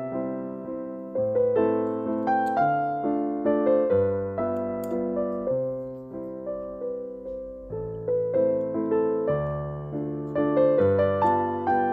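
Background piano music: a steady flow of notes, each struck and then fading.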